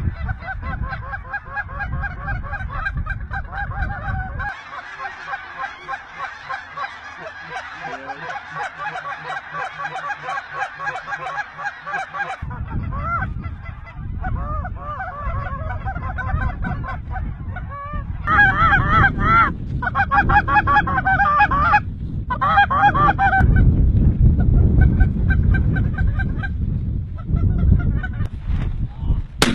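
A flock of geese honking and calling on and on, the calls loudest in a run of bursts past the middle, over a low rumble of wind on the microphone.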